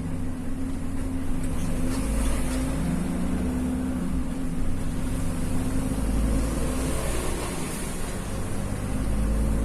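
Vehicle engine and road noise heard from inside the cab while driving: a steady low drone with an engine hum whose note changes about seven seconds in.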